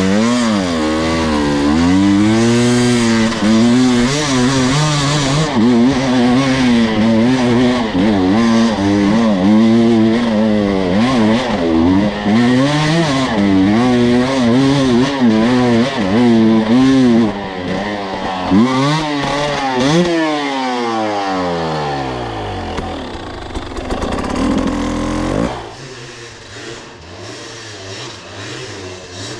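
Two-stroke dirt bike engine running under load, its revs rising and falling again and again. About 25 seconds in, the engine sound drops off abruptly to a much quieter level.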